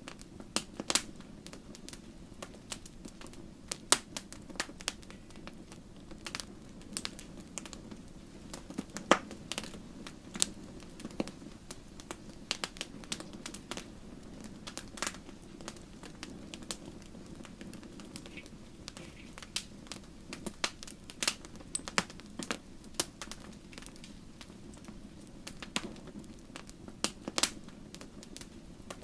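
Wood fire burning in a fireplace, crackling with irregular sharp pops of burning logs over a steady low rush of flame; a few pops, near 4, 9 and 27 seconds in, are much louder than the rest.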